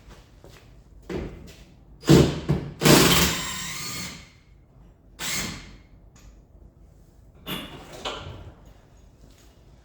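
Metal clanks and clatter of tools and car parts being handled, in several separate bursts. The loudest is a run of knocks about two to four seconds in with a brief metallic ring.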